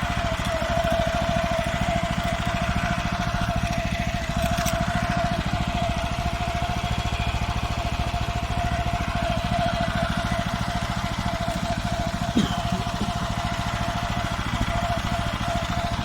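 Fermer 1511 walk-behind tractor's engine running steadily under way, with a constant whine over the engine note and a single brief knock about twelve seconds in.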